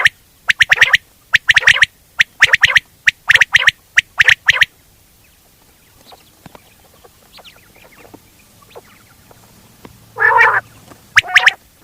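Quail calling in short, sharp repeated notes, as used in a quail-hunting call recording. There is a run of about seven calls in the first five seconds, then a pause of about five seconds with only faint clicks, then two more calls near the end.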